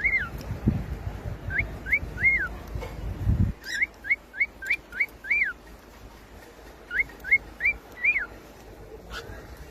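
Cockatiel whistling its song: quick runs of short rising whistled notes, in three or four phrases that each end on a longer note that rises and falls. A low rumble runs under the first few seconds.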